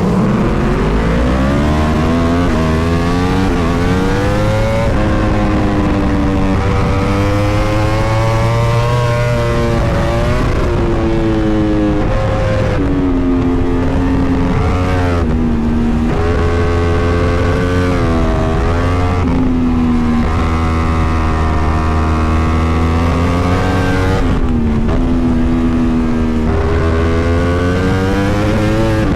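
Superbike racing motorcycle engine at full race pace, heard from on board. It revs up through the gears and drops sharply in pitch several times as it shifts down for corners.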